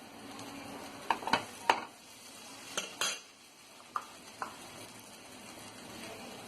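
Dosa frying on a hot tawa with a steady sizzle, and a metal utensil clinking and scraping against the pan several times in the first few seconds.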